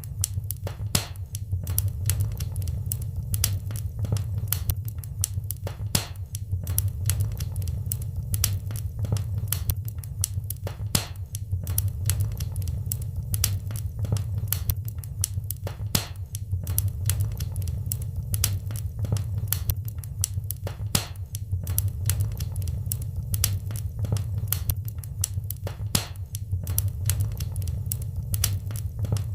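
Wood fire crackling in a fireplace: dense, irregular sharp pops and snaps, several a second, over a steady low rumble of the flames.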